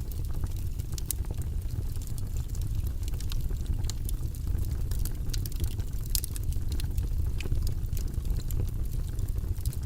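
Wood fire burning in a fireplace: a steady low rumble with many sharp, irregular crackles and pops from the burning logs.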